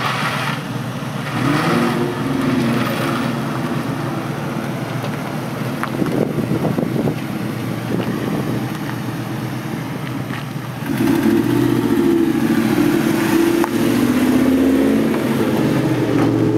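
Ford Mustang Cobra's V8 engine revving up and down repeatedly as the car is driven hard through an autocross cone course, getting louder about eleven seconds in as the car comes close.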